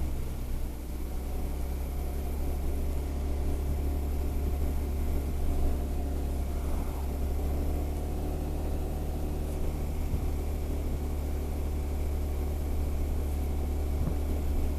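Honda SH 300i scooter's single-cylinder engine running steadily with a deep, even drone.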